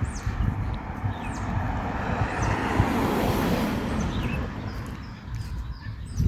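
A vehicle passing by: a broad rush that builds to a peak about three seconds in and fades away, with small birds chirping around it.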